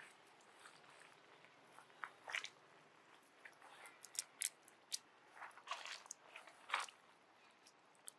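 Faint, irregular crunching and crackling, a scatter of sharp clicks that comes thicker in the second half.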